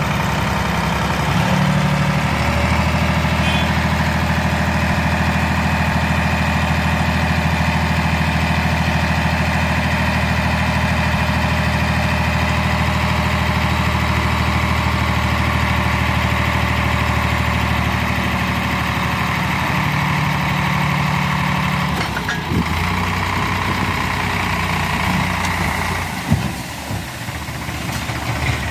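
Heavy diesel engine running steadily at a constant speed. Its note shifts lower about three quarters of the way through, and a single sharp knock comes near the end.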